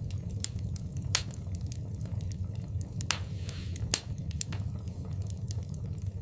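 Wood fire crackling in a fireplace: irregular sharp pops and snaps over a steady low rumble of flame. The loudest snaps come about a second in and about four seconds in, with a brief hiss just after three seconds.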